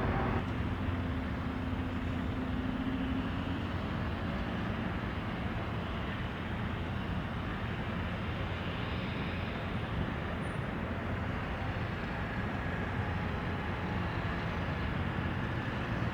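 Steady rumble of jet airliner engines, with a low hum over the first few seconds that stops about three and a half seconds in.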